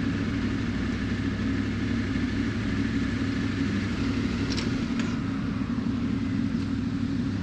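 Steady engine drone of a moving road vehicle, even in pitch and level throughout, with two faint ticks about halfway through.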